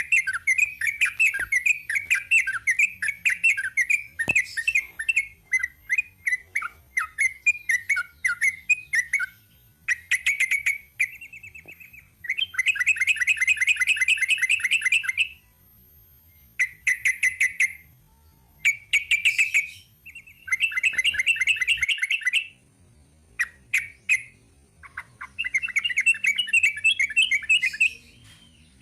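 Yellow-vented bulbul (trucuk) singing its 'ropel' song: a run of quick chattering notes, then long rapid-fire trills in bursts of one to three seconds, broken by short pauses.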